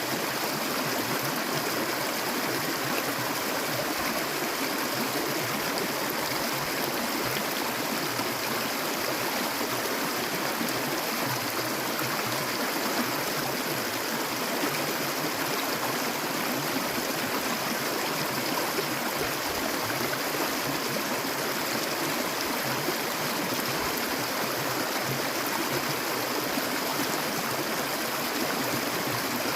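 Clear stream water flowing steadily, a continuous rushing and gurgling.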